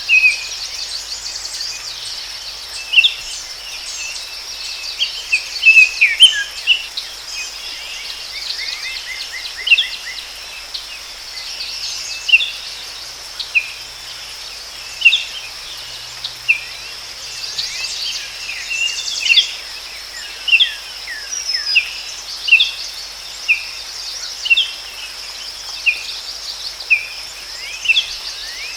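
Forest ambience: birds chirping and trilling over a steady, high-pitched insect drone. Through the second half a bird repeats a short chirp about once a second.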